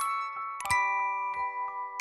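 Background music of a glockenspiel-like mallet instrument playing a slow, gentle tune, its struck notes ringing on and overlapping.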